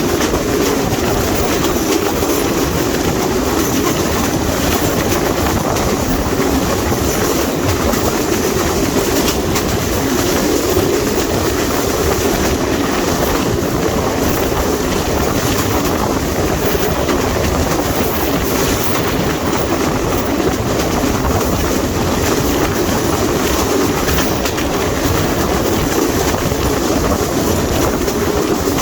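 Train running at speed, a loud steady rush of wheel and track noise that holds unbroken throughout.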